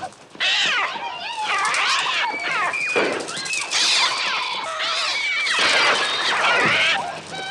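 A swarm of attacking birds screeching: many shrill, overlapping cries that glide up and down in pitch, the film's electronically produced bird sounds.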